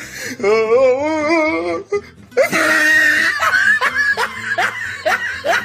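A person laughing hard in long, wavering peals, growing louder about halfway through.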